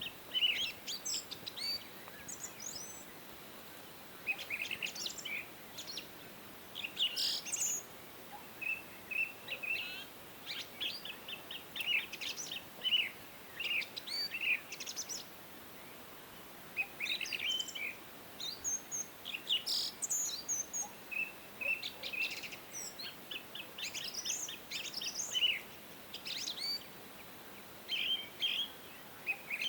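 Several songbirds chirping and singing at once, short quick notes and trills in phrases that come and go, over a faint steady hiss.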